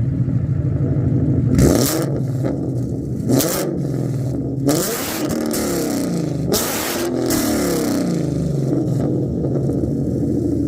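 Ford Mustang GT's 5.0 Coyote V8 through an MBRP exhaust with catted long-tube headers, revved from idle: two quick blips, then two longer, higher revs that rise and fall. It settles back to a steady, lumpy idle for the last few seconds.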